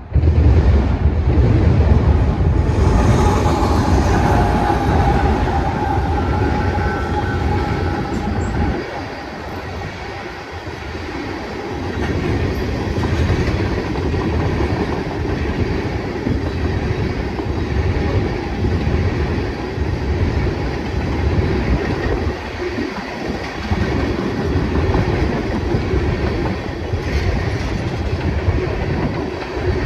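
Freight train cars rolling past close by, steel wheels clacking over the rail joints. A faint high wheel squeal rises a few seconds in and fades.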